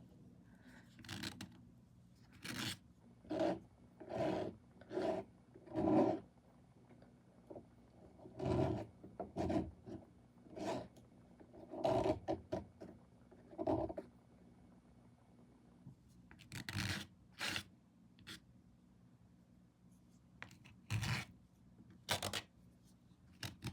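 Scraping knife dragging paint across the painting surface in a series of short rasping strokes, about one a second, with a couple of brief pauses.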